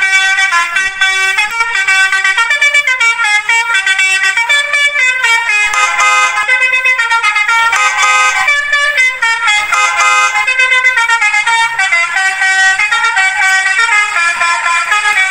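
A horn playing a continuous melody of short notes that step up and down in pitch.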